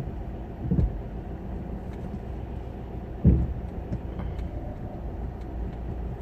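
Car engine running, heard from inside the cabin as a steady low rumble, with two short low thumps, the louder about three seconds in.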